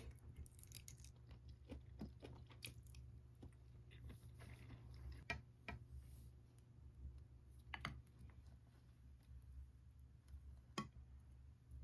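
Faint eating sounds: a person chewing food, with scattered light clicks of wooden chopsticks and a wooden spoon against dishes, the sharpest two near the end, over a low steady hum.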